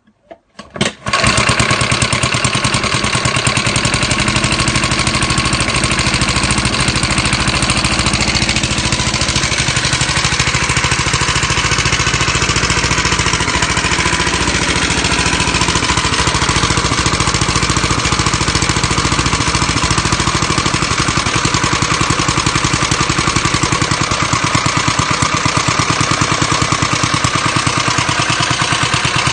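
Freshly rebuilt small single-cylinder engine starting about a second in, after a few sharp firings, and then running steadily with an even, rapid beat.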